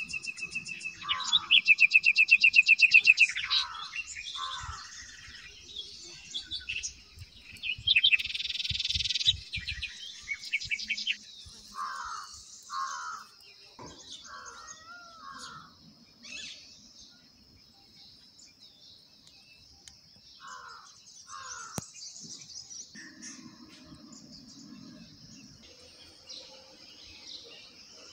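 Songbirds chirping and calling, with a fast, loud trill of rapidly repeated notes in the first few seconds and pairs of lower calls later on, over a steady high hiss.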